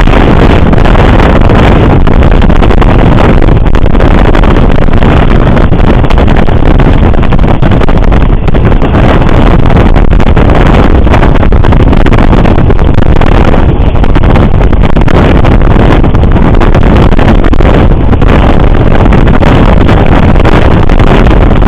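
Passenger train in motion, a loud steady rumble with wind buffeting the microphone.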